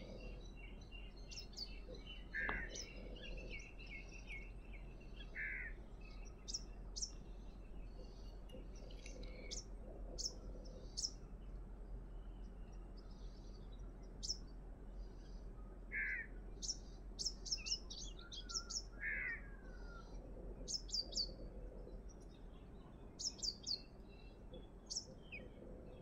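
Several birds chirping and calling at dawn: many short, high chirps in quick runs, with a few lower, longer calls now and then, over a steady low hum.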